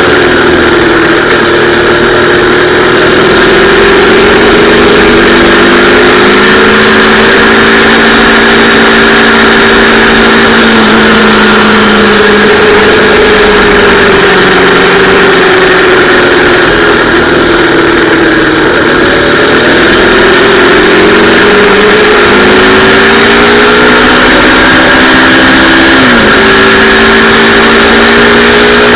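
Yamaha R3's 321 cc parallel-twin engine running hard at speed, its pitch climbing and falling again and again as the rider accelerates and rolls off, with a quick sharp drop in revs near the end. A loud rush of wind noise lies under it.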